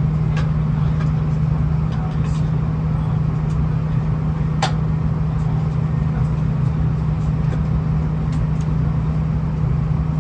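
Steady low drone and rumble of a V/Line VLocity diesel multiple unit heard from on board, with a constant hum and a few faint clicks, one clearer about halfway through.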